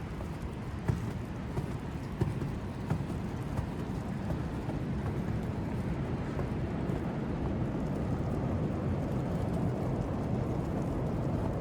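Steady low city rumble of traffic, with a few footsteps on snow in the first few seconds.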